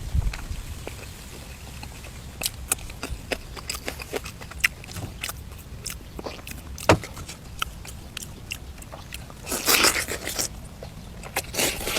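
A person eating close to the microphone: chewing and biting food, with many small irregular clicks and a louder crunching, scraping burst about ten seconds in and another near the end.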